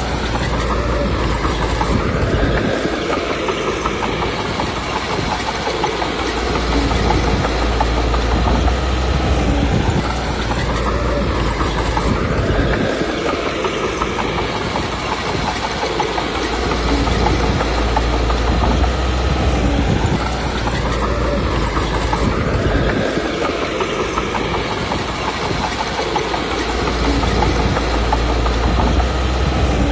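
Komatsu D21P crawler bulldozer working: its diesel engine runs under load while the steel tracks clank. The engine note rises and falls in a cycle that repeats about every ten seconds.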